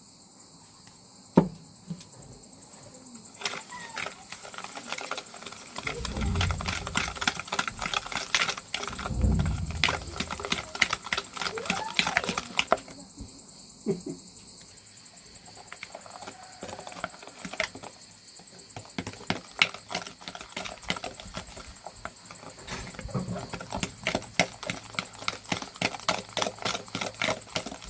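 Kitchen utensils clicking and tapping in quick runs against a bowl or dish, with a few dull knocks, over a steady high chirring of insects.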